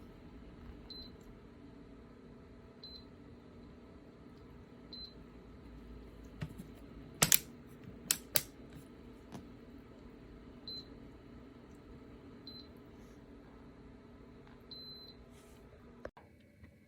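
Short high electronic beeps every second or two and three sharp loud clicks over a steady low hum. The hum cuts off right after a click near the end.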